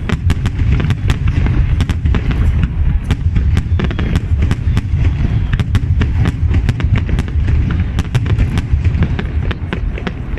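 Fireworks display at its height: a rapid, continuous run of sharp crackling reports, several a second, over a steady deep rumble of shell bursts.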